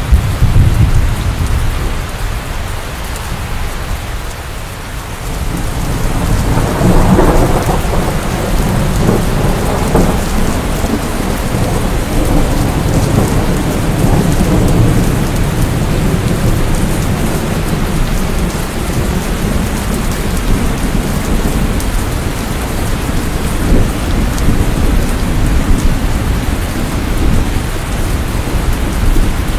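Steady rain with rolling thunder: a deep rumble fading in the first few seconds, then another building about six seconds in and rolling on under the rain.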